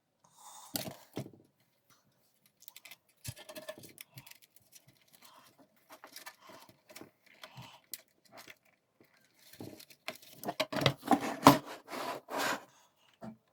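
Irregular clicks, small rattles and rustling from small hard parts being handled, thickest and loudest about ten seconds in.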